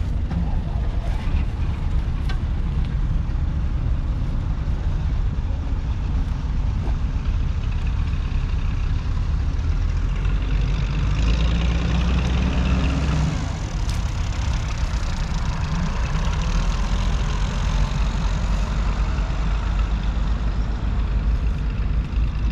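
John Deere 6210R tractor's 6.8-litre six-cylinder diesel engine running steadily while pulling a plough. The engine note is deeper and louder from about ten to thirteen seconds in.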